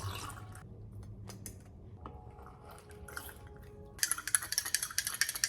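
Faint, scattered clinks of kitchen utensils and dishes. About four seconds in, a rapid run of clinking begins, like a utensil stirring quickly in a dish.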